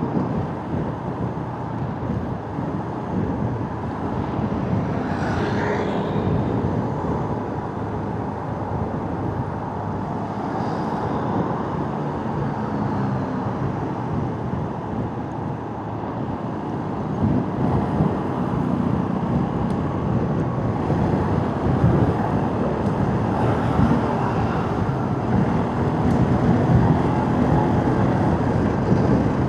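Motorcycle ride in traffic: the bike's engine runs steadily under continuous road and traffic noise, with a short rising whine about five seconds in and the noise getting louder in the last third.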